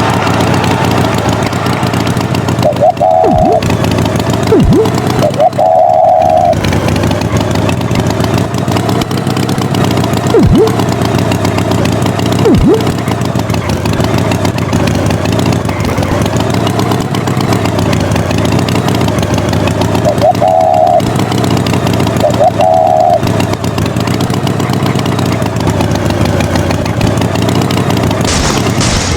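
Animated farm tractor's engine running steadily, with a few short beeps and several quick falling glides.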